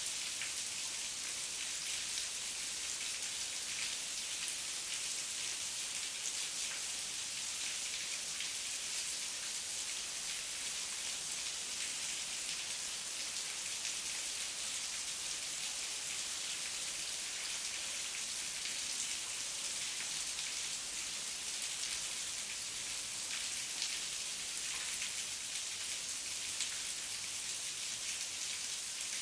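Steady heavy rain falling, a dense even hiss of drops with faint individual drop taps.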